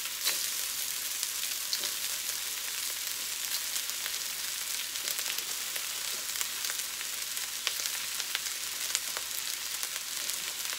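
Day-old white rice and shrimp frying in oil in a wok: a steady sizzle with many small crackles and pops.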